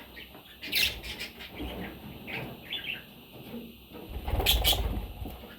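Pet budgerigars chirping in short, scattered calls, with a louder rustle of movement about four seconds in that lasts under a second.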